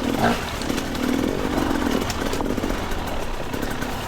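Two-stroke dirt bike engine running on a trail, with its pitch wavering and a short louder surge just after the start.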